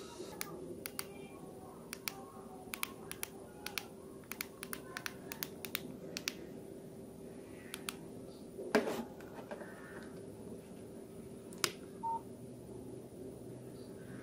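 Keypad buttons of a Nokia 105 phone being pressed: a quick, irregular series of sharp clicks, with one louder knock about nine seconds in and a short beep near the end.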